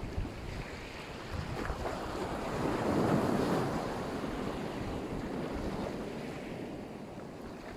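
Black Sea surf washing onto the shore, one wave swelling to a peak about three seconds in and then falling away. Wind rumbles on the microphone throughout.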